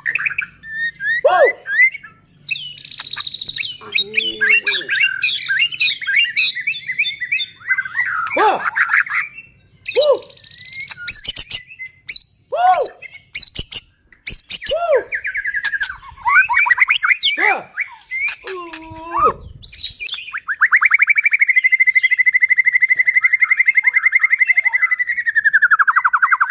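White-rumped shama (murai batu) singing loudly: a varied run of chirps, quick twittering phrases and low falling whistles, then, about twenty seconds in, a long fast rattling trill held at one pitch for about six seconds.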